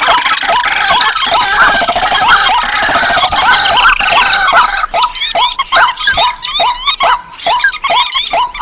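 A layered mix of recorded marsh and paddy-field bird calls used as a bird lure: rails, crakes and waterhens calling over one another. The calls are dense at first, and from about five seconds in one call repeats quickly, about three times a second.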